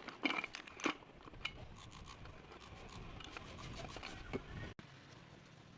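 Rubbing and scraping handling noise, with a few sharp clicks: one about a third of a second in, one near one second and one at about four and a half seconds. The sound drops out briefly just before the end.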